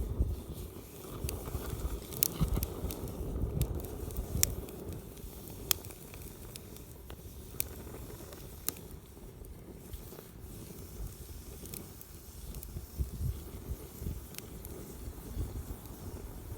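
Wood campfire burning, crackling steadily with scattered sharp pops, about a dozen, irregularly spaced.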